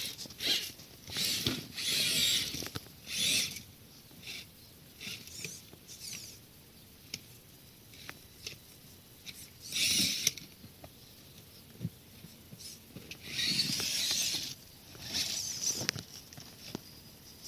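Intermittent scuffing and scrabbling on rock and grit in short bursts, the largest about ten seconds in and around fourteen seconds in, with scattered sharp clicks between them.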